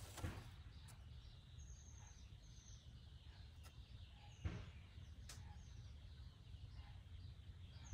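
Faint room-and-outdoor background with a low rumble and a few short, high bird chirps. There are two soft knocks, one just after the start and a sharper one about halfway through.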